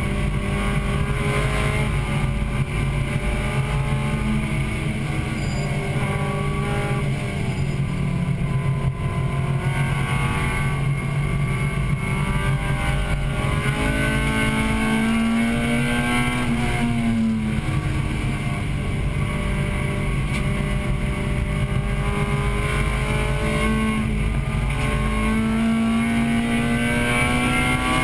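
1998 Acura Integra Type-R's 1.8-litre VTEC four-cylinder engine heard from inside the cabin at racing speed, its pitch repeatedly climbing under acceleration and falling back as the driver lifts and shifts, with a marked drop about seventeen seconds in and another climb near the end.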